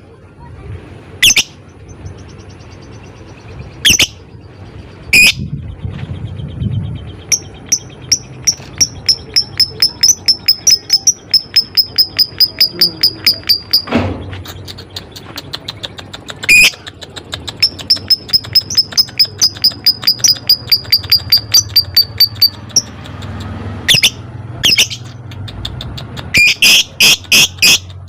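Lovebird ngekek: two long chattering trills of rapid sharp ticks on a high, slowly falling note, each lasting several seconds, set between loud single shrieks, with a quick string of shrieks near the end.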